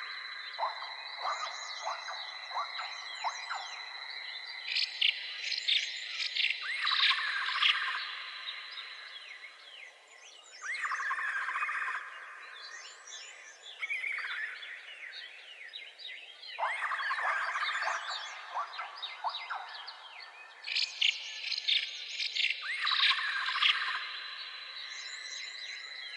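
Birds chirping and calling in repeated bursts of quick notes and rising calls, over a steady high-pitched tone.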